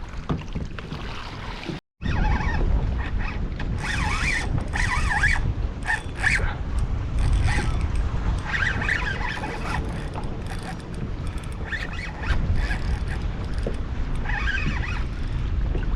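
Wind buffeting the microphone with a steady low rumble, with scattered lighter sounds above it; the sound cuts out completely for a moment about two seconds in.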